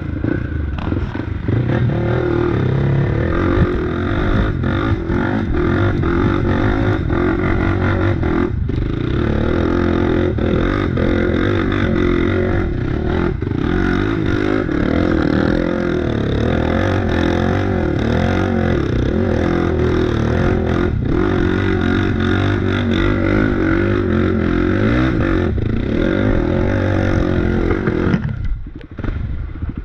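Off-road bike engine running steadily under load while riding a trail, with clatter and knocks from the bike over rough ground. The engine sound drops away suddenly near the end.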